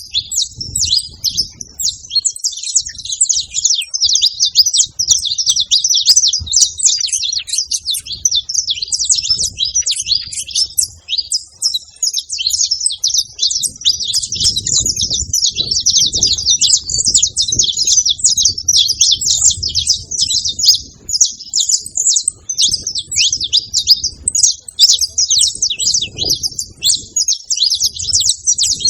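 Saffron finches singing: a dense, nearly unbroken stream of rapid high chirping notes.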